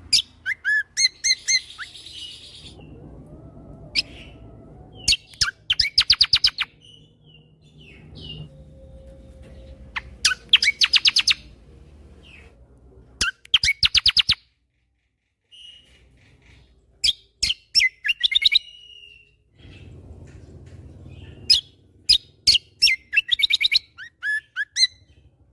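Kecial kombo (cucak kombo) songbird singing in loud bursts of very rapid trilled notes and sharp chips, with short pauses between the bursts.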